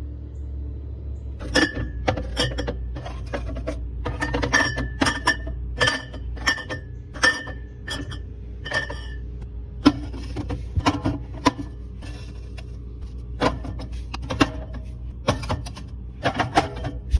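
Glass beer bottles clinking against each other as they are loaded into a fridge: a long run of irregular clinks, several with a short bright ring, over a steady low hum.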